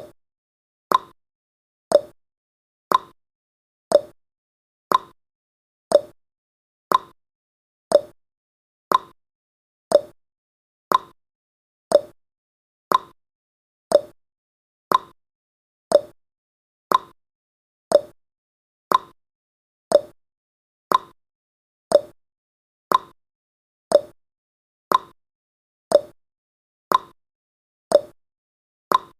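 Clock-style tick-tock sound effect, one short tick each second, alternating between a higher and a lower tick, counting off the timer's seconds.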